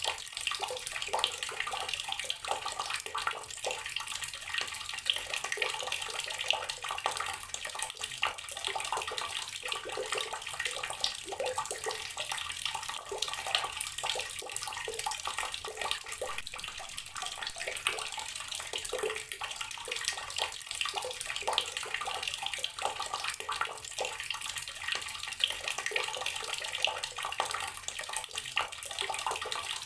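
Water running steadily from a tap and splashing into a basin below, an even rush with constant small splashes.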